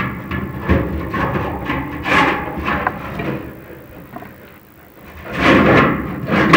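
Inspection camera and its rods scraping and knocking inside a prefabricated metal chimney flue as they are pushed upward, a rough, irregular rumbling scrape that grows louder near the end.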